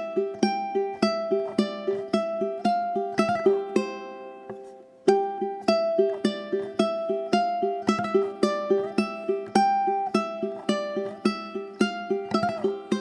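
Relaxing background guitar music: a fingerpicked pattern of plucked notes, about four a second. The phrase fades out about four seconds in and starts again a second later.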